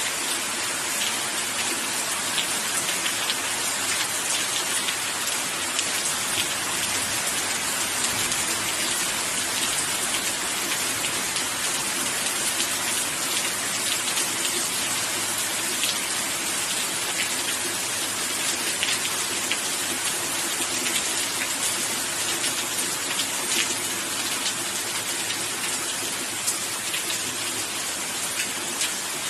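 Steady rain falling and pattering on a surface, a dense even hiss with many fine drop ticks.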